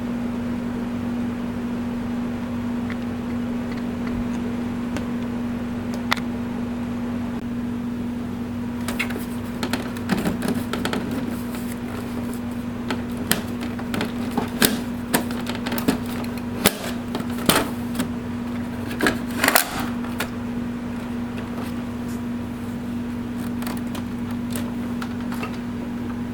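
Clicks and knocks from parts of an HP OfficeJet Pro 8600 printer being taken apart, a scattered run of sharp clicks through the middle, over a steady low hum.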